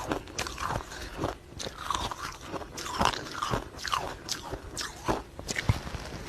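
Ice being bitten and chewed close to the microphone: irregular crunching and cracking, several crunches a second.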